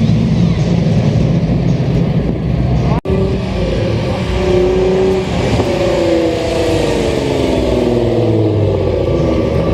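Car engine running loudly; after a brief dropout about three seconds in, the engine note falls gradually over several seconds.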